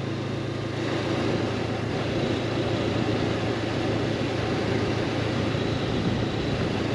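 Honda CB500X's parallel-twin engine running while riding, with wind noise, growing louder and rougher about a second in.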